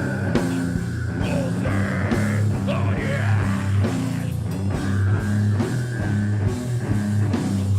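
A metal band playing live: distorted guitars and bass over a drum kit with steady hits.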